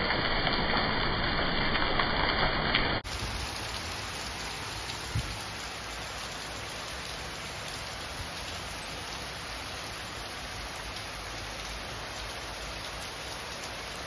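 Heavy rain pouring steadily on a garden, a dense even hiss. About three seconds in the sound changes abruptly to a quieter, brighter hiss of rain, with a single dull thump a couple of seconds later.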